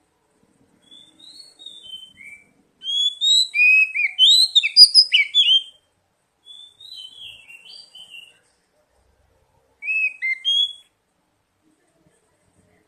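Oriental magpie-robin singing: phrases of quick, varied whistled notes, soft at first, loudest and densest from about three to six seconds in, then softer, with one short loud phrase near ten seconds.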